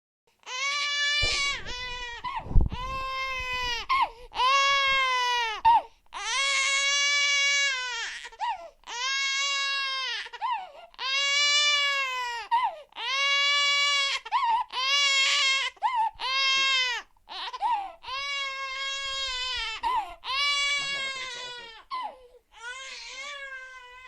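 Newborn baby crying hard in a long run of wails, each lasting one to two seconds with short pauses for breath between them. A brief low thump sounds about two and a half seconds in.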